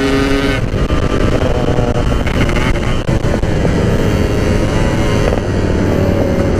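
Yamaha RX-King's single-cylinder two-stroke engine running under way, heard through heavy wind noise on the microphone. Its steady note breaks off about half a second in, and a fainter engine tone sinks slowly near the end.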